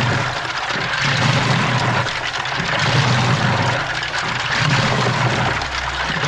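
Washing machine drum turning through a wash, heard from inside the drum: water sloshing and a load of keys clattering, over a low motor hum that swells and fades about every second and a half.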